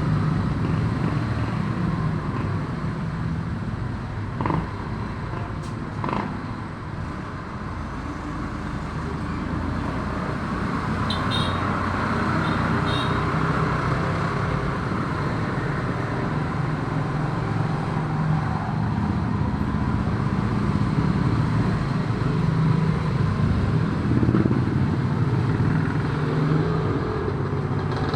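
Road traffic: motor vehicles running and passing in a continuous rumble, with two sharp knocks about four and six seconds in.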